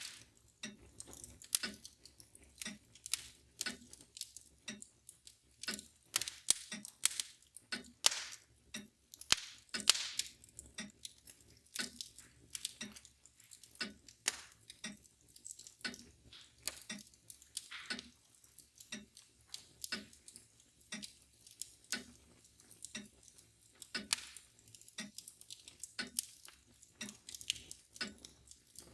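Wood fire crackling and popping irregularly, over a mantel clock ticking steadily about once a second.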